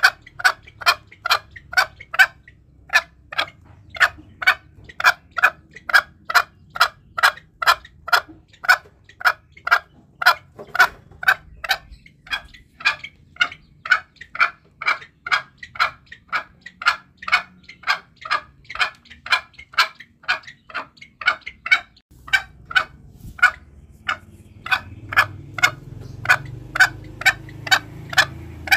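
Green junglefowl calling in a rapid, even series of short sharp clucks, about three a second, broken by a few short pauses. It is a lure call for drawing in wild junglefowl.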